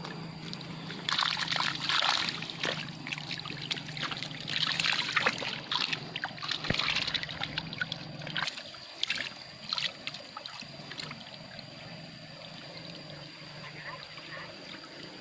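Water splashing and trickling in uneven bursts, the strongest about a second in and again around five to seven seconds in, thinning to quieter dribbles and a few sharp clicks after about eight seconds. A steady high tone runs underneath.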